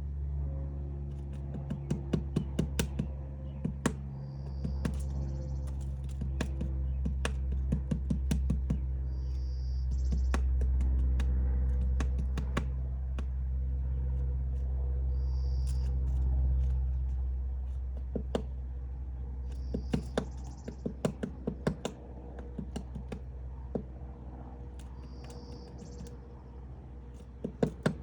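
Woodpecker pecking and chiselling into wood to dig out its nest hole, in irregular runs of quick sharp taps with pauses between them. A low steady rumble runs underneath.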